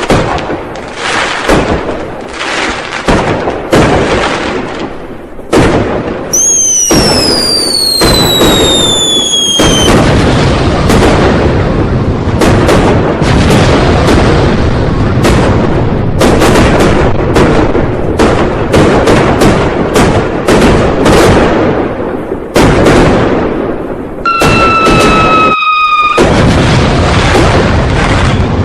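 A dense, unbroken barrage of New Year firecrackers going off, bang after overlapping bang. About six seconds in, a high whistle slides down in pitch for about three and a half seconds, and a lower, shorter whistle sounds near the end.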